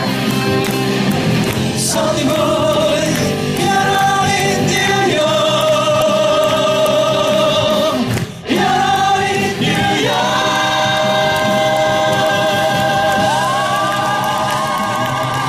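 Male vocal trio singing the song with accompaniment, several voices in harmony. From about ten seconds in they hold long notes together with vibrato.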